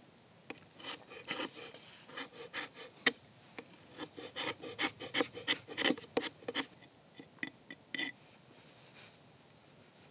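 Irregular runs of short scraping strokes, a few a second, busiest through the middle and trailing off near the end.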